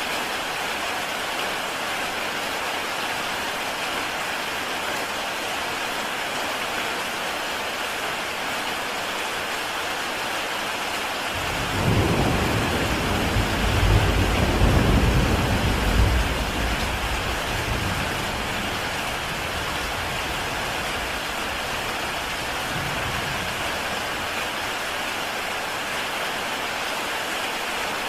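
Heavy rain falling steadily on a tile roof. About twelve seconds in, a low rumble of thunder swells, is loudest a few seconds later, then fades away.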